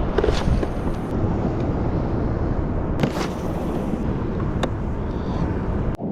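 Wind rumbling on the microphone, a steady low noise, with a few light knocks along the way; the sound changes abruptly near the end.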